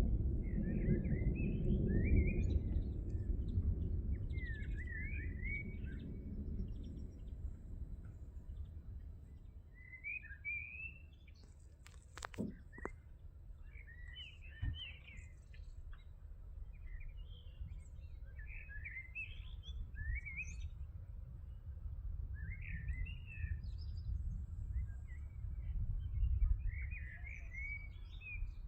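Small songbirds chirping and twittering repeatedly, in quick short calls. Under them a low rumble dies away over the first several seconds, and there is a single sharp click about twelve seconds in.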